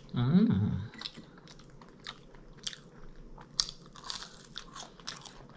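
Close-miked chewing of crunchy fried food, with many small sharp crunches. A hummed "mm" of approval comes in the first second.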